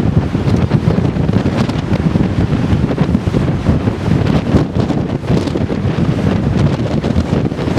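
Strong wind buffeting the microphone, a loud, uneven low rumble.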